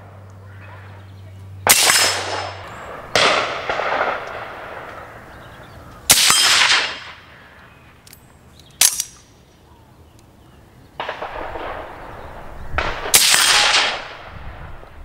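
Rifle shots fired at steel gong targets: about six shots a second or two apart, each cracking sharply and trailing off in an echo.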